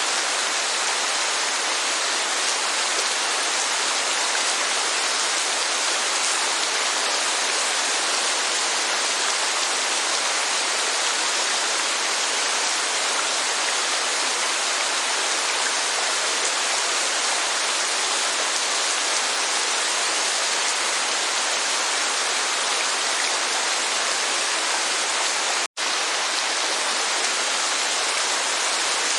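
Steady, even hiss of heavy rainfall, with no other sounds. It cuts out for an instant about 26 seconds in.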